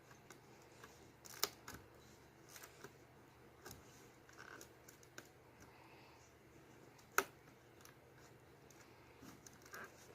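Plastic Lego bricks clicking and clattering faintly as they are handled and pressed together: a scattering of small clicks, with two sharper ones about a second and a half in and about seven seconds in.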